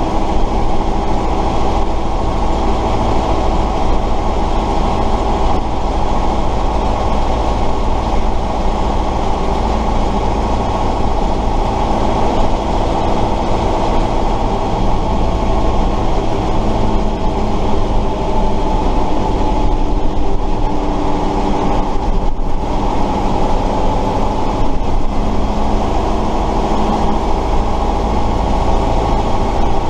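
Tatra 138 fire truck's air-cooled V8 diesel engine running steadily while driving, heard from inside the cab.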